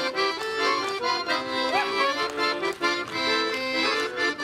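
Accordion playing the instrumental close of a folk-style song: chords repeated in a steady bouncy rhythm, with no singing.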